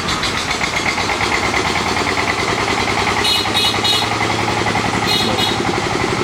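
Motorbike engine running close by with a steady rhythmic chug. There are two sets of three quick high beeps, one about halfway through and one near the end.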